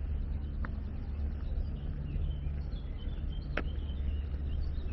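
Small birds chirping over a steady low rumble of outdoor city ambience, with two sharp clicks, one early and one past the middle.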